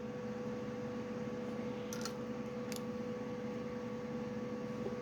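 Steady hum and whir of a computer tower's cooling fan, with a couple of faint clicks about two seconds in.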